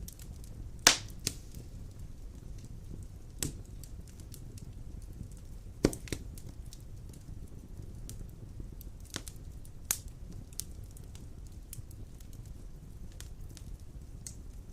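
Wood fire burning in a stone fireplace: a steady low rumble of flames with scattered sharp crackles and pops, the loudest about a second in and near the middle.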